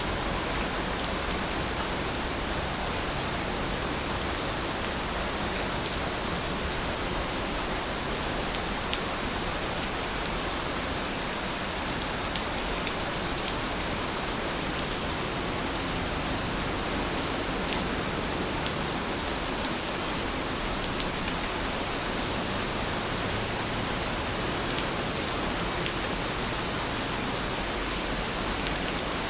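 Steady rain falling: an even hiss with scattered sharp drop ticks. A faint, high chirping comes and goes in the second half.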